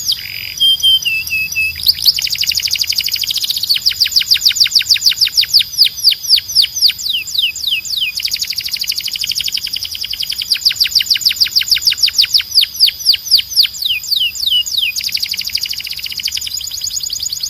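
Domestic canary singing: long runs of rapid trills made of quickly repeated falling notes. The speed changes from phrase to phrase, with a brief run of lower, slower stepped notes about half a second in.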